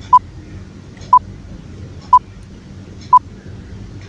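Quiz countdown timer beeping: four short, identical beeps, one a second, ticking off the time given to answer. A faint low hum sits underneath.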